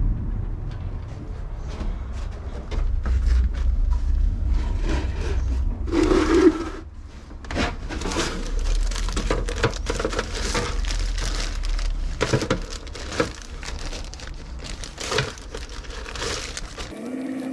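Irregular workshop handling noises: clicks, knocks and rustling as parts and tools are handled, with a low rumble underneath that stops near the end.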